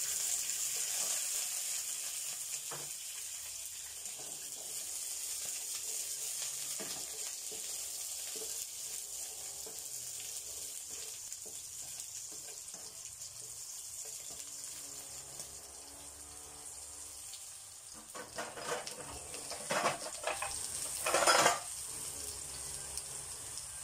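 Tomato pieces sizzling in hot oil in a pan, with the steady hiss of frying. Near the end come several louder clatters and scrapes as a spatula works the pan.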